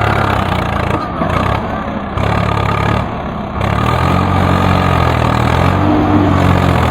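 Tractor diesel engine running. Its note drops briefly twice, then picks up again about halfway through and holds steady.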